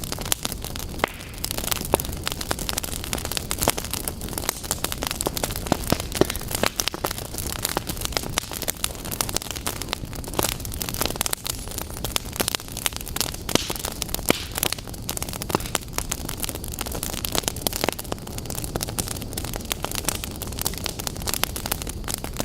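Fireplace fire crackling, with irregular sharp pops and snaps over a steady hiss of burning.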